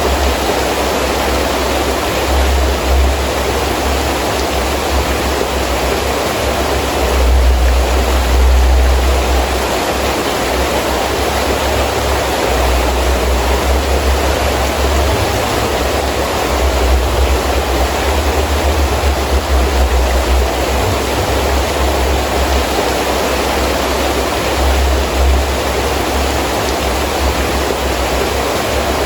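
Heavy rain falling steadily as a dense hiss, with gusty wind adding a low rumble that swells and drops every few seconds.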